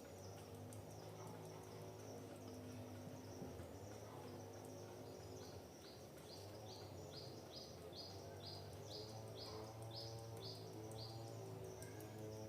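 Faint forest ambience: a steady high insect drone, with a bird repeating a short chirp about twice a second, a dozen times, from about five seconds in until near the end. Low steady humming tones run underneath.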